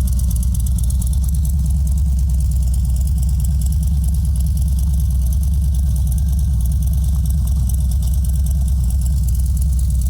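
Harley-Davidson Softail Street Bob's Milwaukee-Eight V-twin running steadily at low revs: an even, low pulsing with no revving.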